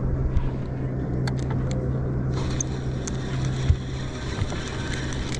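Fishing boat's motor running steadily at trolling speed, a constant low drone with water and wind noise.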